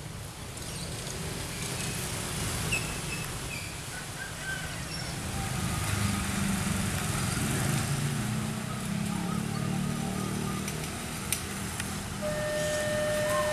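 Road traffic and an approaching CC 203 diesel-electric locomotive: a low engine rumble builds about halfway through, and a steady high tone starts near the end.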